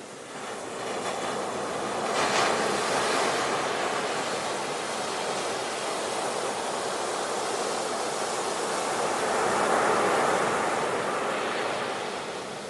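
Ocean surf: waves washing in, swelling to a peak about two seconds in and again near the end.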